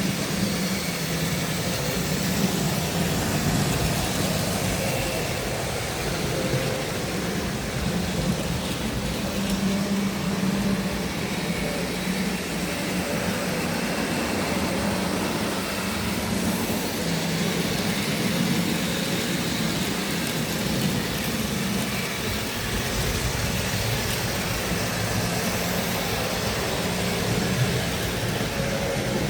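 Tri-ang OO-gauge model train running on the track: a steady electric-motor whir and wheel rumble on the rails that wavers a little in strength.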